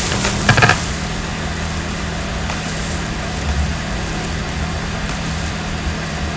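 Noise music: a steady wash of hiss over a low droning hum, after a short loud burst about half a second in.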